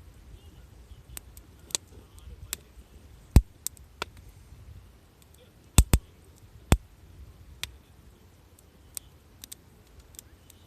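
Campfire wood crackling: scattered sharp pops at uneven intervals, the loudest a few seconds in and a close pair just past the middle.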